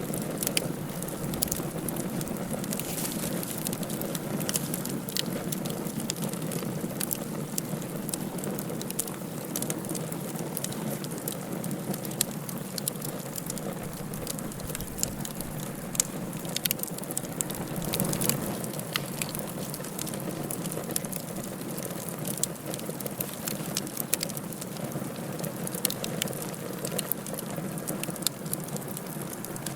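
Wood fire burning in a fireplace: a steady rushing hiss with frequent irregular crackles and pops.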